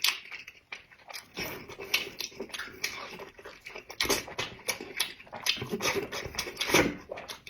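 A person eating close to the microphone: chewing with many short mouth clicks, several a second, that pause briefly about a second in.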